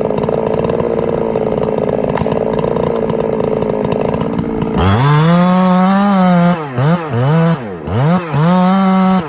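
Two-stroke chainsaw running at low speed, then revved to full throttle about five seconds in. Around seven and eight seconds the engine drops off sharply twice and picks back up, holds high, then drops away at the end.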